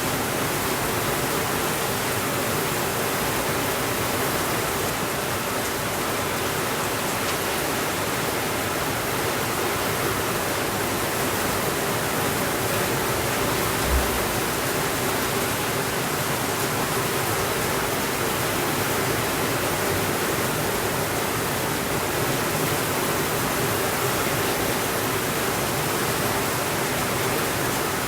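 Steady rainfall, an even rushing hiss, with a single brief low thump about halfway through.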